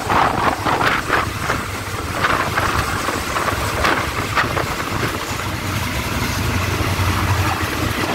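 Diesel passenger train running along the line, heard from inside a carriage: a steady rumble and rush of air with irregular knocks and rattles from the wheels and carriage, and a low steady engine hum that grows stronger in the second half.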